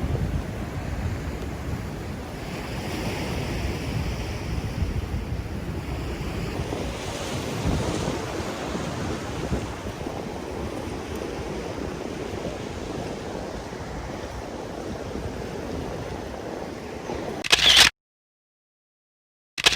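Sea waves washing ashore with wind buffeting the microphone. Near the end a short loud burst of noise cuts off into silence, followed by another brief burst.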